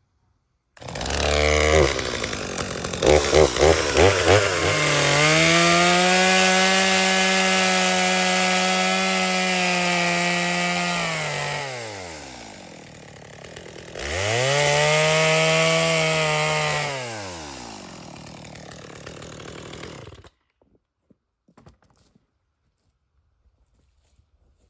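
Two-stroke chainsaw starting and running unevenly for a few seconds, then revved up to a high steady full-throttle pitch, dropping back, revved up again, and shut off suddenly.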